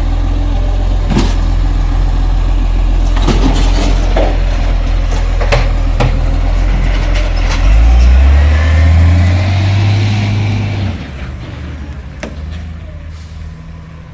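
Garbage truck's diesel engine running loudly, with scattered sharp knocks and clanks. About eight seconds in the engine revs up for roughly three seconds, then the engine sound drops away and the level falls.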